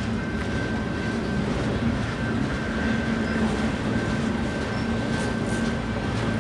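Freight train's autorack cars rolling past at close range: a steady rumble and rattle of steel wheels on rail, with a low hum and a thin steady whine over it.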